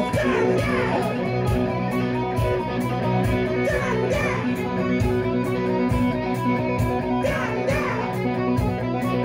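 Rock music: electric guitars playing held chords over drums, with a steady cymbal beat and a few sliding guitar lines falling in pitch.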